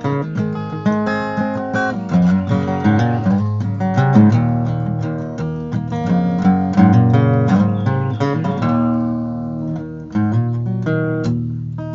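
Acoustic guitar playing a strummed and picked instrumental introduction to a country-style song.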